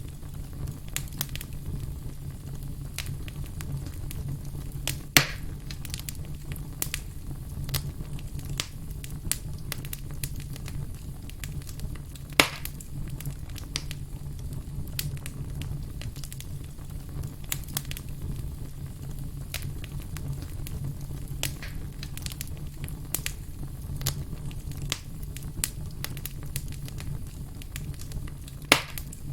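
Campfire burning: a steady low rumble of flames with frequent small crackles, and three louder pops, about five seconds in, about twelve seconds in and near the end.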